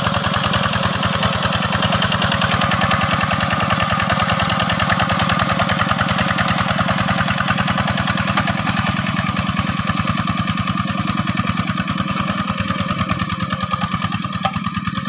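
Single-cylinder diesel engine of a two-wheel hand tractor running steadily, with a rapid, even pulsing chug.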